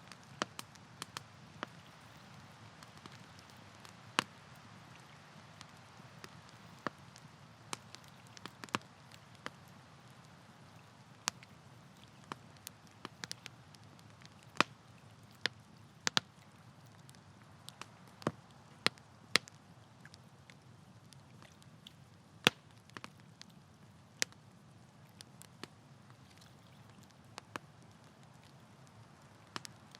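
Wood campfire burning: irregular sharp crackles and pops, a few seconds apart and sometimes in quick clusters, over a soft steady hiss of flame.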